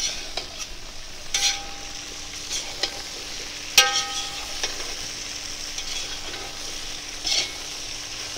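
Potatoes, sausages and vegetables sizzling in a hot kazan as they are stirred, a metal spoon scraping and clinking against the pan several times. The loudest clink, about four seconds in, rings briefly.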